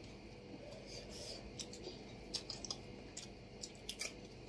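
Faint eating sounds: irregular wet clicks and lip smacks of people chewing chicken and rice, eaten by hand.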